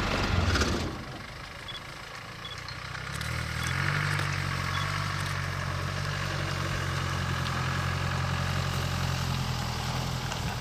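Safari vehicle engine idling steadily. It is quieter at first, then picks up and grows louder about three seconds in.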